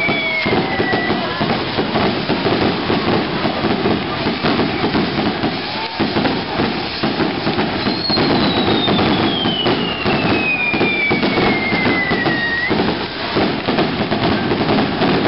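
Castillo firework tower burning, a dense, continuous crackling and popping of many small charges. A whistle falls in pitch at the very start, and a longer one slides down from about eight seconds in to near thirteen.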